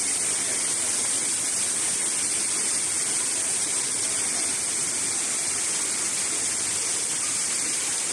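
Steady, loud rushing of water with a strong hiss, unbroken throughout.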